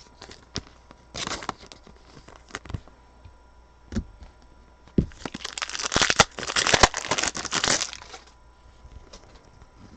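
Foil trading-card pack wrapper being torn open and crinkled, with the cards inside handled and tapped. A few short rustles come first; about five seconds in, a longer, louder stretch of crinkling with sharp clicks follows.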